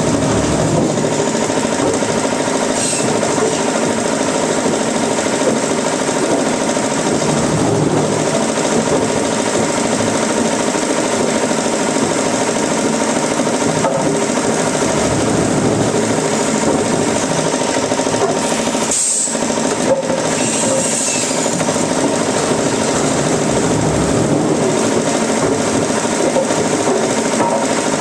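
Woodworking machinery running steadily with a dense, grinding mechanical noise, briefly dipping about two-thirds of the way through.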